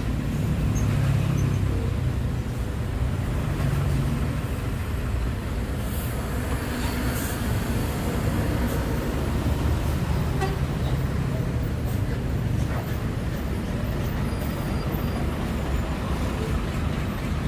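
Heavy road traffic in slow-moving congestion: the engines of large trucks and buses run low and steady. A brief hiss comes about six to seven seconds in.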